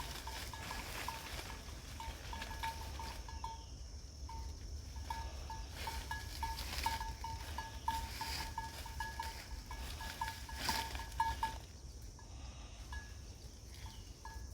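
A bird calling in a long run of short, clipped notes of a single pitch, several a second, thinning out near the end, over a low wind rumble.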